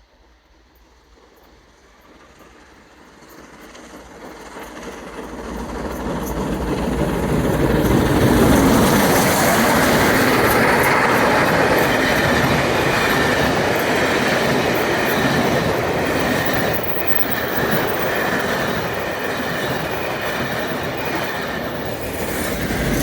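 Royal Scot class steam locomotive hauling a train of coaches, approaching and passing close by. The sound builds over the first several seconds, then the train runs past steadily for the rest of the time.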